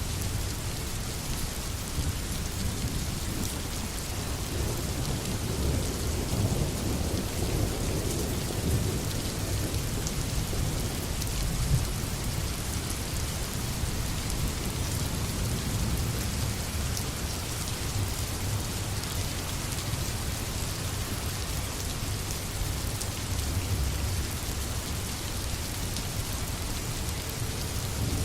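Steady rain falling on forest foliage, an even hiss, with a low rumble of thunder underneath that swells a few times.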